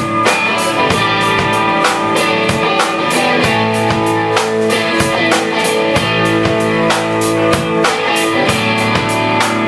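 A rock band playing live, with guitar over a steady drum-kit beat.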